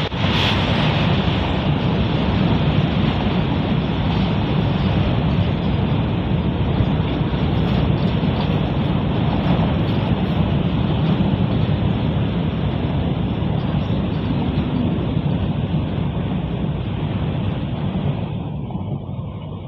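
Long freight train of covered boxcars rolling past, a steady loud rumble of wheels on the rails that fades near the end as the tail of the train goes by.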